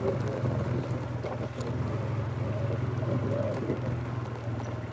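2015 Polaris 570 ATV's single-cylinder engine running steadily while riding a trail, with a few short knocks and rattles about a second and a half in.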